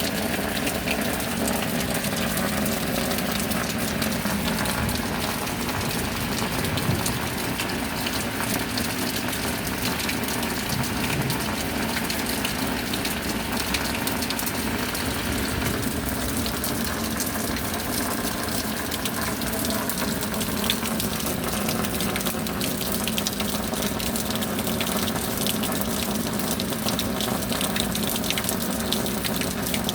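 Steady rainfall: a constant rush of water with many small drop impacts ticking through it, unchanging throughout.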